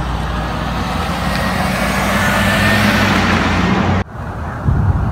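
Heavy vehicle engine running close by amid loud road and construction noise, growing a little louder, then cutting off suddenly about four seconds in, leaving quieter street noise.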